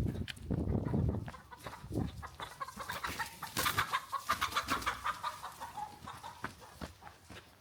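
Chickens clucking, with a fast run of short, repeated clucks through the middle.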